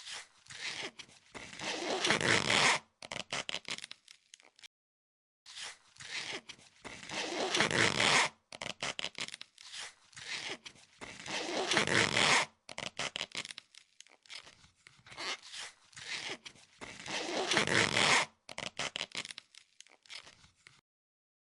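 Adhesive vinyl wrap being peeled off its backing in a zipper-like tearing sound: four long pulls, each growing louder and stopping sharply, with short stuttering rips between them.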